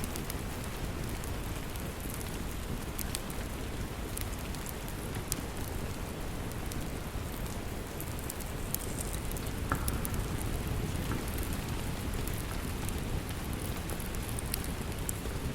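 Steady rain falling, with scattered sharp crackles from a wood fire in a fireplace.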